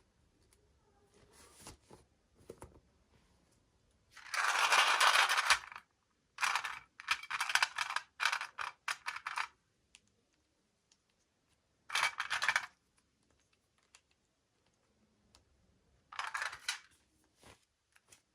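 Toy packaging being handled and opened: four spells of crinkling and rustling, the longest lasting about a second and a half, one made of short quick bursts, with small clicks between them.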